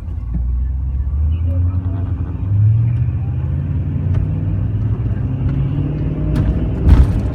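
Car engine running and pulling under acceleration, its pitch slowly rising, with a loud thump about seven seconds in.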